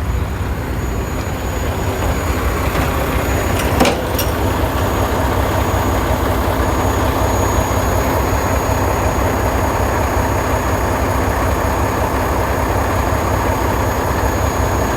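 Semi-truck's diesel engine idling steadily, with a single short knock about four seconds in.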